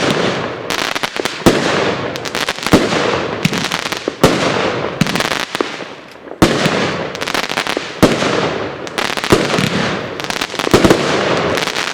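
A multi-shot consumer fireworks cake firing a steady string of shots, about one a second. Each shot is a sharp bang followed by a fading hiss, and the firing tails off near the end.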